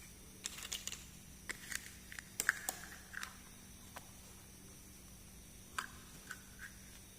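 Light clicks and taps of small plastic toy pieces being handled, coming in a quick cluster over the first few seconds and a few more near the end.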